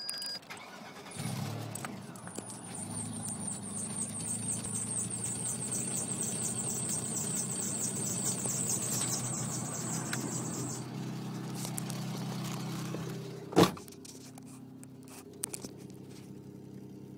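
Vauxhall Vectra B's 2.5-litre X25XE V6 starting about a second in and running at idle, heard from inside the cabin, with a rapid high chirping over it for the first ten seconds or so. A single sharp knock comes near the end, after which the engine runs on more quietly. The owner is trying to track down a blowing sound from this engine.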